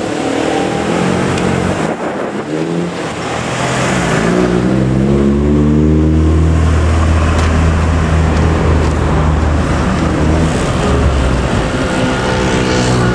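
Busy road traffic passing close by: several motor vehicle engines change pitch as they go past. A heavy, low engine sound builds about four seconds in and fades about eleven seconds in.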